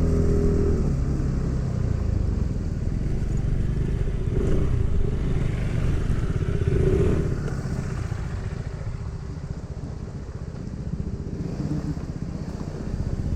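Motorcycle engine running while the bike is ridden, a little quieter from about halfway through.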